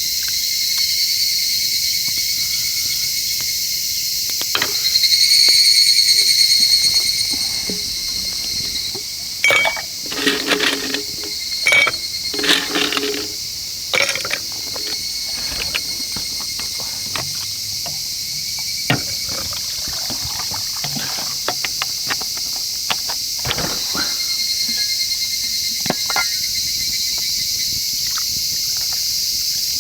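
Insects chirring in a steady high-pitched chorus, swelling louder around five seconds in. Scattered clicks and knocks come in the middle.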